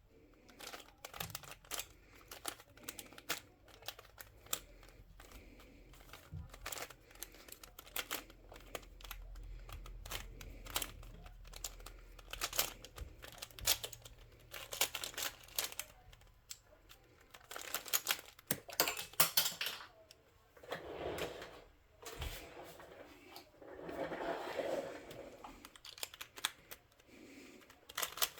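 Plastic twisty puzzle cube being turned in quick flurries of rapid clicking and clacking layer turns, with short pauses between runs of moves.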